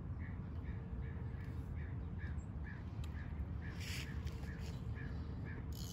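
A bird calling over and over in short notes, about two to three a second, over a steady low outdoor rumble, with brief hissing bursts in the middle and near the end.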